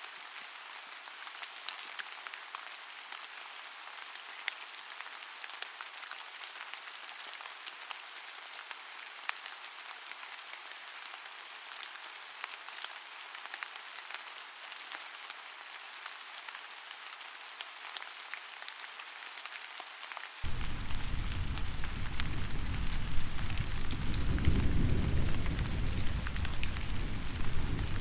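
Steady rain with a patter of individual drops. About twenty seconds in, it abruptly gets louder as a deep rumble joins the rain, swelling a few seconds later.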